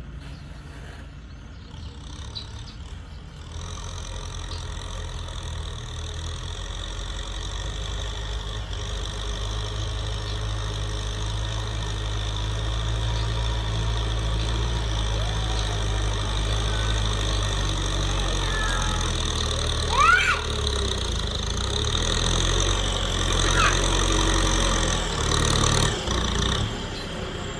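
Kubota tractor's diesel engine running steadily, growing louder over the first half as if drawing nearer, with two short, sharp chirps about two-thirds of the way in.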